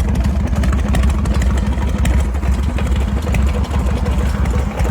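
Motorcycle engine running steadily with a fast, even, throbbing beat and no revving.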